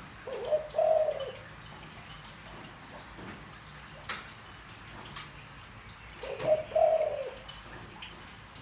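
Spotted dove cooing in a deep voice: two short phrases of a few notes each, about six seconds apart. A sharp click about four seconds in.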